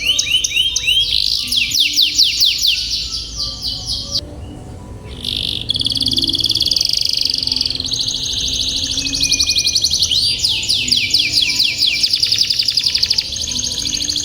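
Domestic canary singing long rolling trills of rapid repeated notes, with a short break about four seconds in before the rolls resume.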